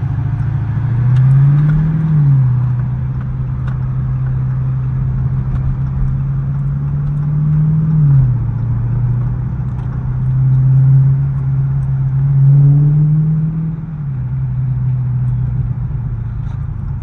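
SRT 392's 6.4-litre HEMI V8 running under way, heard from inside the car. It drones steadily, its pitch rising about a second in and again around ten seconds, dropping back each time as the throttle changes.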